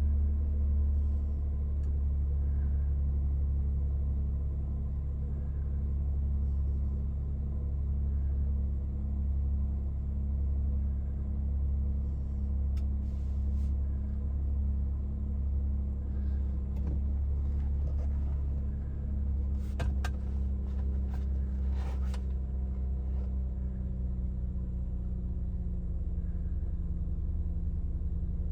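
1990 Acura Legend L's V6 engine idling steadily on a cold start, its fast idle slowly settling lower. A few sharp clicks come about two-thirds of the way in.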